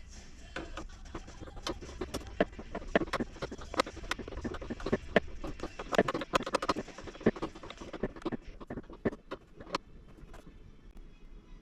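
Irregular clicks, taps and knocks of small parts and tools being handled, busiest in the middle and thinning out toward the end.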